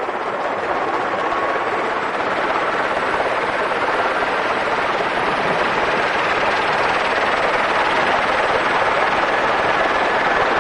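Helicopter running, a steady rushing noise that grows slowly louder as it powers up for lift-off.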